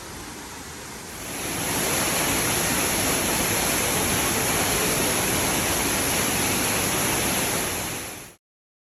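Waterfall: a steady, loud rush of falling water that swells about a second in and cuts off suddenly near the end.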